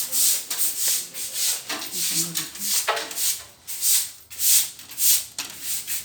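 Scrubbing of ceramic wall tiles being washed with cleaner, a rhythmic rasping swish about twice a second.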